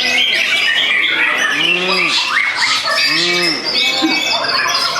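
Several white-rumped shamas singing at once at a songbird contest, a dense tangle of whistles and rapid varied phrases. Twice, about one and a half and three seconds in, a lower call swells up and falls away beneath the song.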